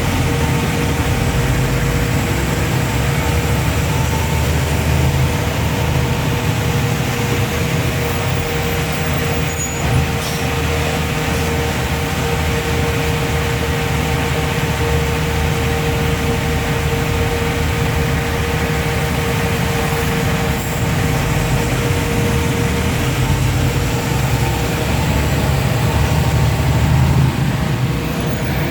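Steady road-vehicle noise: a heavy vehicle's engine running at a constant pitch over low road rumble, with a brief knock about ten seconds in.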